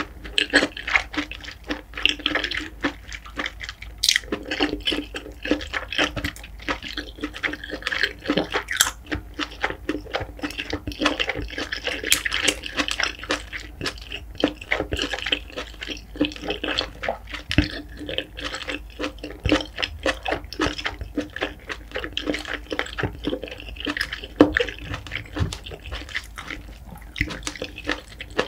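Close-miked chewing of spicy steamed king scallop: wet, squishy mouth sounds with a constant run of small clicks and smacks.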